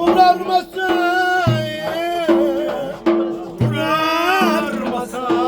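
Turkish folk dance music (oyun havası): an ornamented, wavering melody over a steady lower note, with a drum thumping every second or two.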